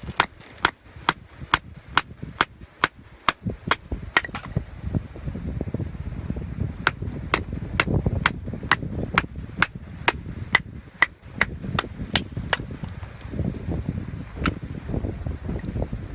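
Sharp, evenly paced strikes, about two a second, in two runs with a short pause between them, and one more strike near the end. A low wind rumble runs beneath them.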